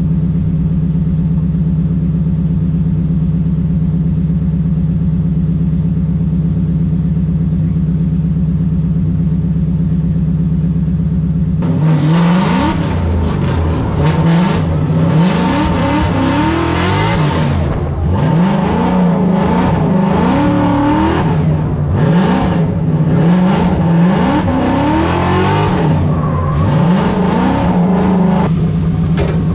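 Supercharged Ford Mustang drift car's engine running at a steady pitch, then from about 12 seconds in revving up and down again and again, the throttle worked on and off as in a drift run.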